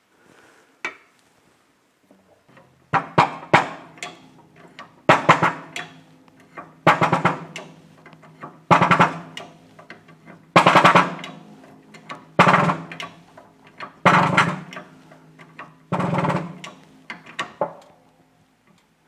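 Shop press pressing a ball bearing onto an electric motor's rotor shaft: nine regular rasping strokes about two seconds apart, with a low hum carrying on between them.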